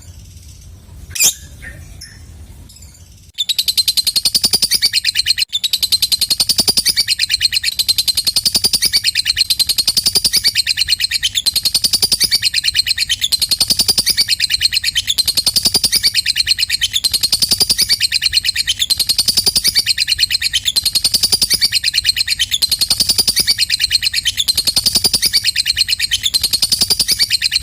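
Lovebird ngekek: a long, fast, unbroken chattering trill that starts about three seconds in and runs on without a pause, after one sharp chirp near the start.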